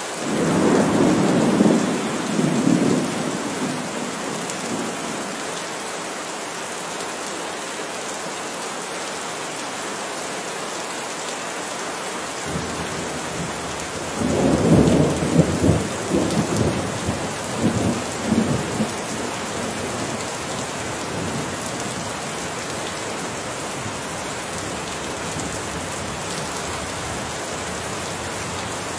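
Steady rain falling throughout, with two rolls of thunder: one in the first few seconds and another about halfway through, each rumbling in several swells for a few seconds.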